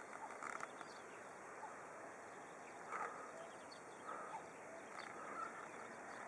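Faint, scattered bird chirps, a few short calls spread over several seconds, over a steady background hiss.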